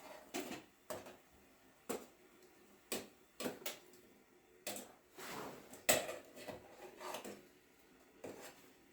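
A string of sharp knocks and clatters, roughly one a second, with a couple of short scraping sounds about halfway through, as of hard objects being handled and set down in a small room.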